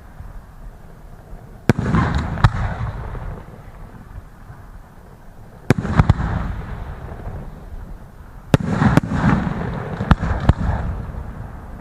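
Aerial fireworks shells bursting: sharp bangs, some in close pairs, every few seconds, each followed by a long rumbling echo with crackle.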